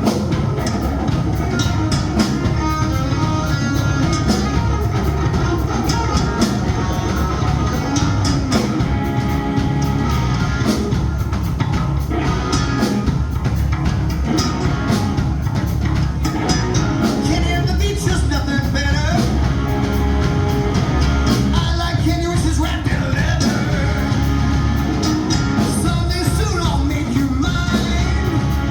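Rock music with electric guitar, drum kit and a singing voice.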